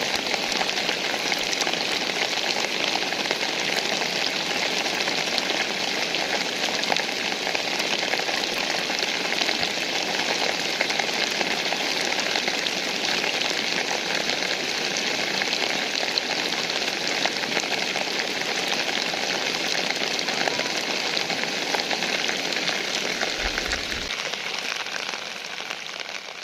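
Steady rainfall: a dense, even hiss of falling drops with fine individual hits, fading out near the end.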